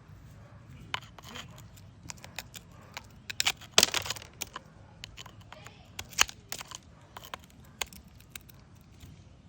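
An irregular run of sharp cracks, clicks and scrapes as hard, brittle material is pried and broken apart, loudest in a cluster about four seconds in.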